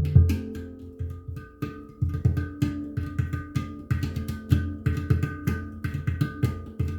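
Handpan being played: quick runs of struck, ringing steel notes over deep low bass tones, with a loud stroke at the start and a faster, busier passage from about a second and a half in.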